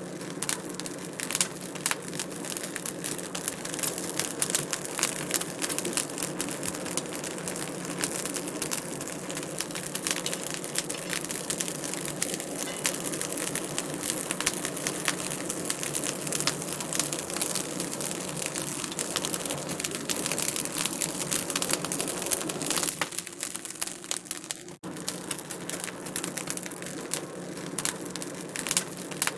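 Wood fire crackling in a fireplace: a dense, irregular run of small pops and snaps over a steady hiss. It thins and briefly cuts out about three quarters of the way through, then picks up again.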